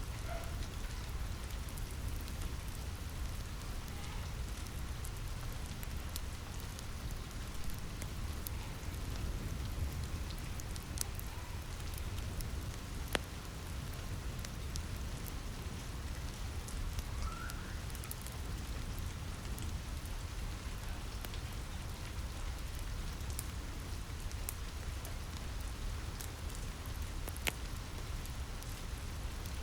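Steady rain pattering on a roof, with scattered sharp pops and clicks of a crackling wood fire; two louder pops stand out, about 13 and 27 seconds in.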